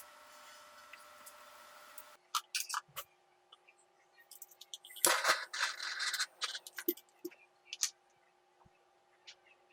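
A steady hum that cuts off about two seconds in, followed by a string of light clicks and taps and a short scraping rustle midway, typical of small parts of a scale model car being handled and worked by hand.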